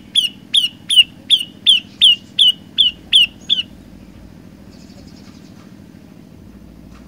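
Olive-backed tailorbird (prenjak lumut) calling: a fast, even series of about ten sharp, down-slurred notes, nearly three a second, that stops abruptly about three and a half seconds in. A faint low hum remains after the notes stop.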